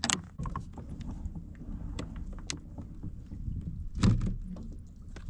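A pedal-drive kayak under way: the pedal drive and water make a steady low rumble, broken by scattered clicks and knocks. The loudest knock comes about four seconds in.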